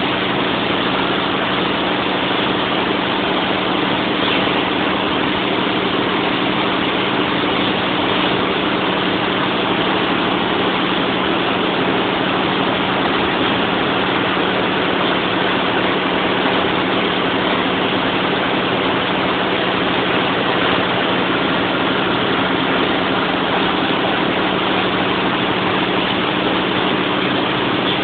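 Large turbocharged generator-set engine running steadily at a constant speed, a dense even drone with a steady low hum.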